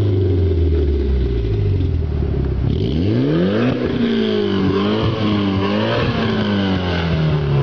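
A car engine idles low and steady, then is revved sharply about three seconds in, its pitch rising and falling three or four times before it drops back toward idle.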